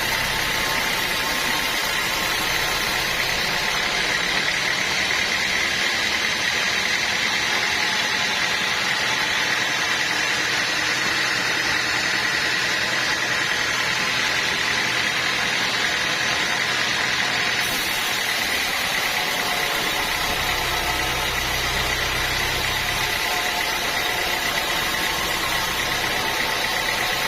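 Sawmill saw machinery running steadily at a constant level, with a steady high-pitched whine over a dense mechanical noise, while sawing teak logs.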